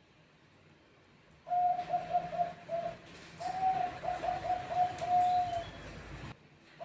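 Zebra dove (perkutut bangkok) cooing: a rapid, rolling run of coos that starts about a second and a half in, pauses briefly, runs on in a second phrase, and breaks off suddenly near the end.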